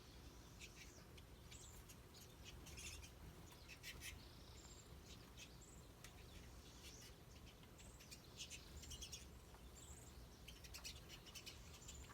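Small birds chirping faintly: many short, high calls and quick runs of chirps scattered throughout, over a faint low background hum.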